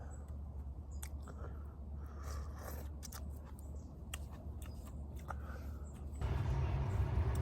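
Someone eating, with chewing and scattered light clicks and scrapes over a steady low hum. About six seconds in, a louder steady noise cuts in.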